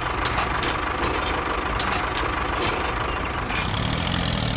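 Small electric motor of a miniature model tractor running steadily, with scattered light clicks. About three and a half seconds in, it changes abruptly to a lower, steadier hum.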